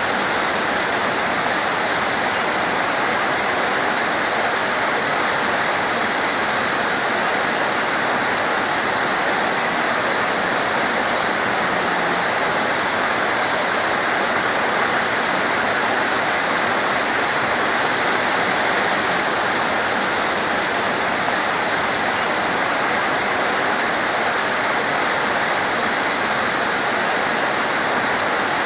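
Heavy torrential rain pouring down in a dense, steady hiss. Two brief sharp ticks stand out, about eight seconds in and near the end.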